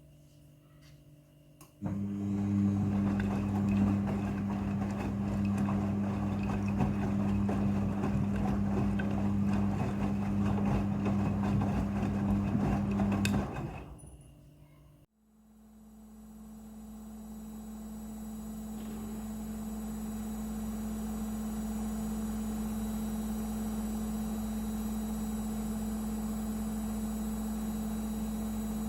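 Midea front-loading washing machine running. A steady hum with a rushing noise over it starts about two seconds in and stops abruptly after about twelve seconds. After a brief gap the machine's motor starts again and builds over several seconds to a steady hum with a faint high whine.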